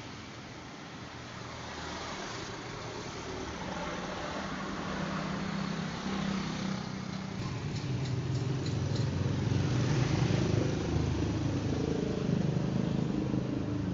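A motor vehicle engine running, growing steadily louder and loudest about two-thirds of the way through.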